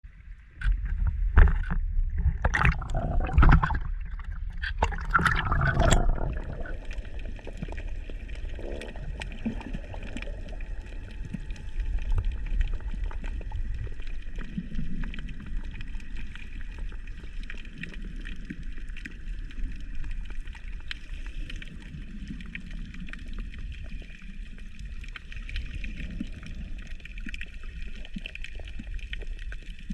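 Water heard through a GoPro underwater: loud splashing and bubbling for the first six seconds, then a steady low underwater rumble with faint scattered ticks.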